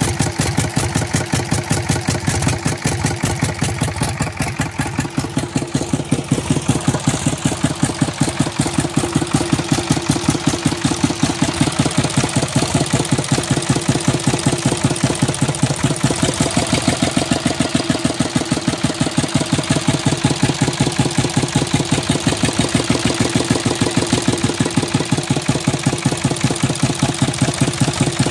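Old three-cylinder diesel tractor engine running steadily with a rapid, even firing beat.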